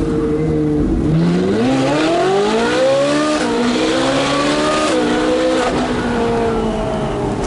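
Ferrari 458 Speciale's naturally aspirated 4.5-litre V8, straight-piped, accelerating hard: the engine note climbs steeply from about a second in, drops at a gear change near three seconds in, climbs again and drops at another shift near five seconds in, then holds steady.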